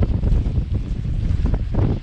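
Strong, gusty wind buffeting the microphone: a loud, uneven low rumble with irregular rough gusts.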